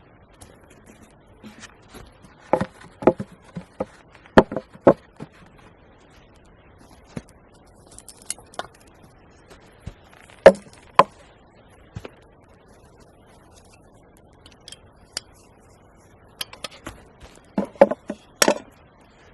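Irregular sharp knocks and taps, coming in small clusters with pauses between, a few of them much louder than the rest.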